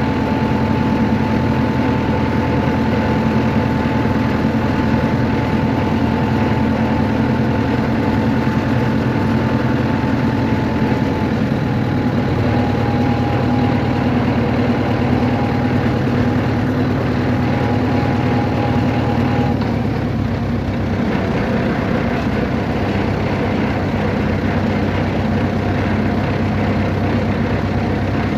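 Steady engine hum of a motor vehicle, with a higher whine that stops about two-thirds of the way through.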